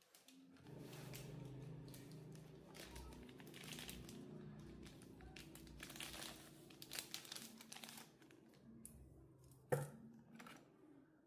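Faint crinkling and rustling of handled material over a low hum, with one sharp click near the end.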